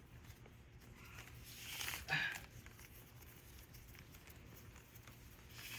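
Electrical wire being pulled through conduit: a faint, steady rubbing and rustling of the wire sliding through, with a few light ticks. A brief voice-like sound comes about two seconds in.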